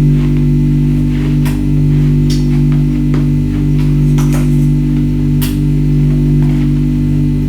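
Ice being bitten and crunched: several sharp crunches, roughly a second apart, the loudest a little past the middle, over a loud steady low drone.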